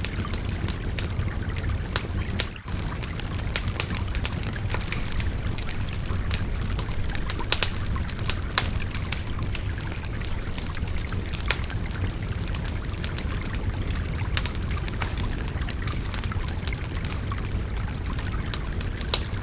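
Wood fire crackling, with frequent sharp pops scattered irregularly, over the steady rushing babble of a river.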